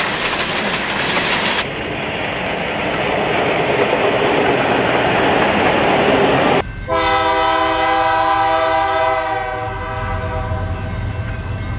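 Train running on rails with a steady clatter and rumble, then a multi-note train horn sounds about seven seconds in, held for about two and a half seconds before fading.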